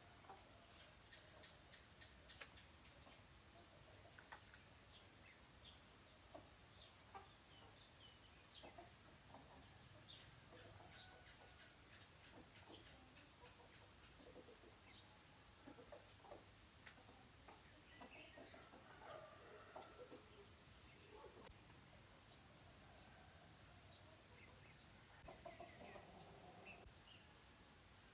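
Cricket chirping in long runs of rapid, evenly spaced high-pitched pulses, pausing briefly a few times, with faint short calls scattered in the background.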